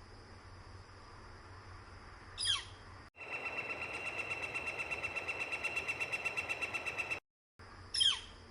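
Northern flicker calling: a sharp down-slurred call, then a rapid, evenly paced run of repeated notes lasting about four seconds (the flicker's long 'wick-wick-wick' call), then another down-slurred call near the end.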